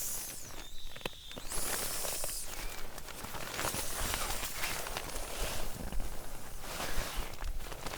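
Footsteps of a person walking, an irregular run of scuffing steps.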